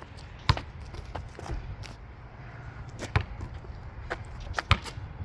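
A basketball bouncing on a court during play: a string of irregular thuds, the strongest about half a second in and about three seconds in.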